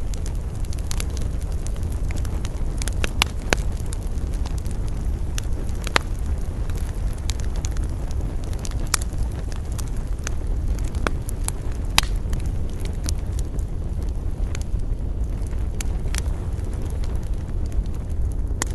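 Wood campfire crackling, with irregular sharp pops, a few louder than the rest, over a steady low rumble of wind.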